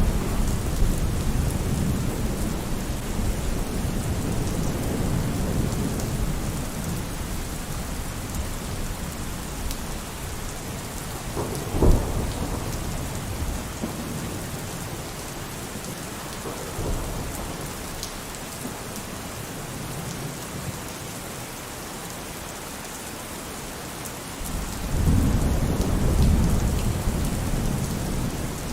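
Steady heavy rain falling, with rolling thunder: a rumble at the start fading away, a sharp thunderclap about twelve seconds in, a smaller one near seventeen seconds, and a loud new rumble of thunder rolling in about twenty-five seconds in.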